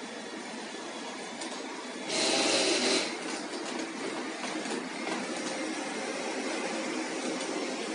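Robot vacuum cleaner running with a steady motor hum and brush whir, with a louder burst of noise about two seconds in that lasts about a second.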